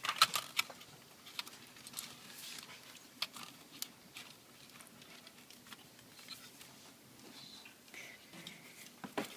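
Scattered sharp clicks and light taps of plastic and metal laptop parts being handled, as an optical drive is fitted back into the laptop's case, with a quick run of louder clicks at the very start.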